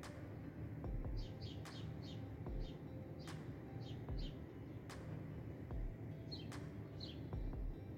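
Short, falling bird chirps, mostly in quick pairs, over soft background music with a slow, even beat of a low thump and a tick.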